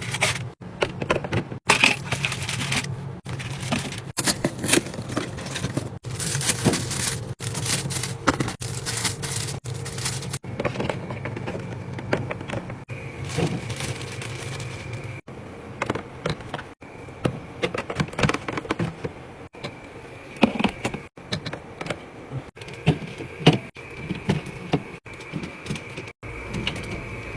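Clicks, knocks and rattles of plastic containers, bottles and lids being handled and set down while a fridge is stocked, cut into short clips with abrupt breaks between them.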